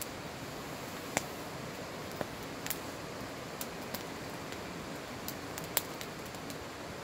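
Wood campfire crackling: a steady hiss with scattered sharp pops and snaps, two louder pops about a second in and near six seconds.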